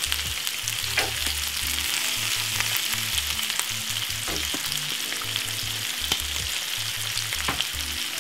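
Peppers, onion, tuna and sweetcorn frying in a little vegetable oil in a frying pan: a steady sizzle, with a few short louder crackles.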